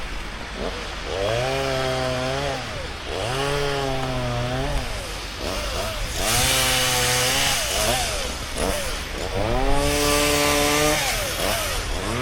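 Chainsaw revved up and held at high speed in about four bursts, each a couple of seconds long, dropping back toward idle between them.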